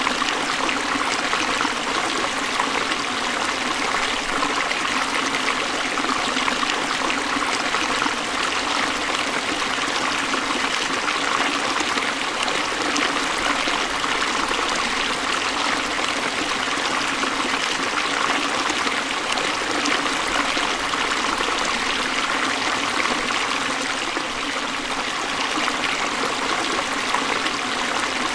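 Forest stream flowing over rocks: a steady rush and trickle of water.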